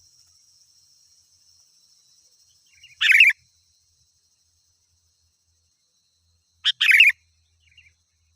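Sooty-headed bulbul (kutilang) calling: two short, bright phrases, one about three seconds in and another near seven seconds preceded by a quick note, with a faint note just after.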